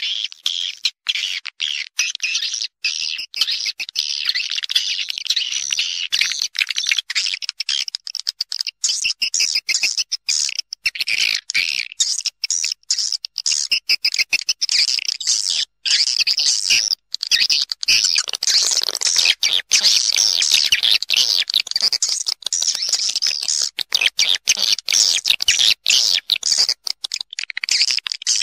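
A flock of edible-nest swiftlets chattering continuously in dense, rapid high chirps. This is the swiftlet roosting call used as a lure to draw the birds into a swiftlet house.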